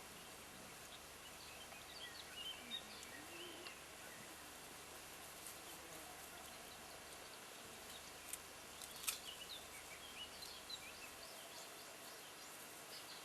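Faint, scattered high chirps and squeaks from small animals over a quiet background hiss, with a sharp click about nine seconds in.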